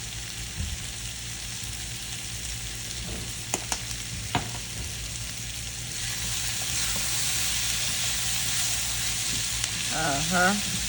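Red onions sizzling as they fry in olive oil in a pan, with a few sharp clicks of a utensil stirring them. The sizzle gets louder about six seconds in.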